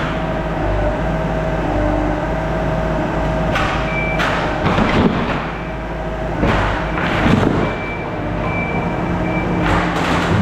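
Skid steer engine running steadily under work, with several louder rushing surges over it and a thin high whine twice.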